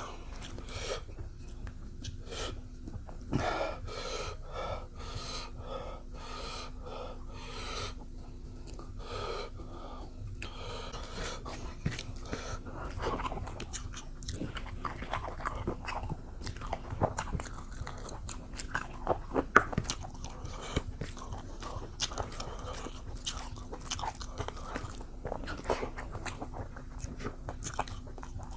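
Close-up eating sounds of a person chewing with the mouth open: wet smacking, biting and crunchy bites in an irregular stream, busier in the second half.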